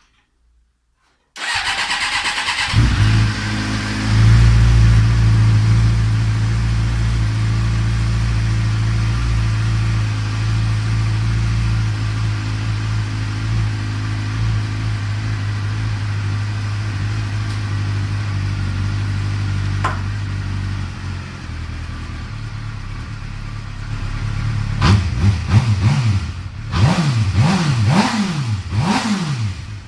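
Suzuki GSX-R600 K7's inline-four, breathing through a Dominator HP3 exhaust with the catalyst and dB killer removed, is cranked on the starter for about a second and catches. It runs at a steady raised idle that drops lower about 21 seconds in, then from about 25 seconds the throttle is blipped again and again, the revs rising and falling sharply.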